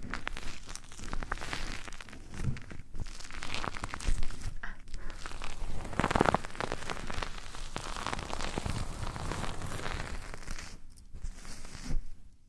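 Close-miked ASMR ear rubbing and scratching on a microphone, a steady crackling rustle full of small clicks, loudest about six seconds in.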